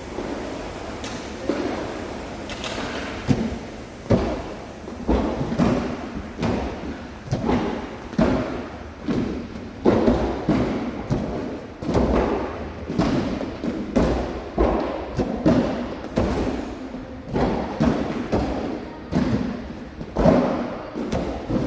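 Repeated heavy thuds, about one every three quarters of a second, ringing in a large gym room: impacts from a CrossFit workout.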